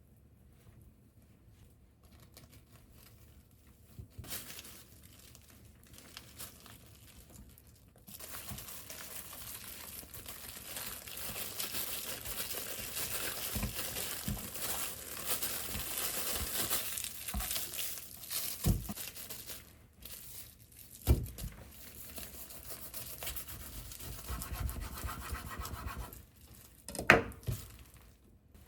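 Crinkling and rustling of wrapping or packaging being handled at length, with a few sharp knocks, the loudest near the end.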